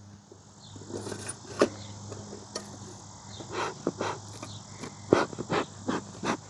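Bee smoker's bellows being pumped, giving a string of short puffs of air, several sharp ones among them, starting about a second in. The smoker has just been lit.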